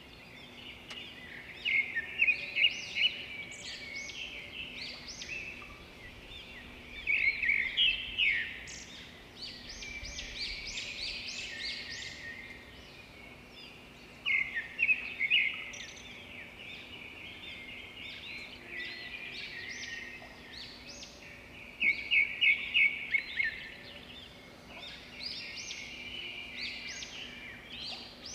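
Birds chirping: clusters of quick high notes that swell loud every six to eight seconds, with softer chirping in between, over a faint steady hum.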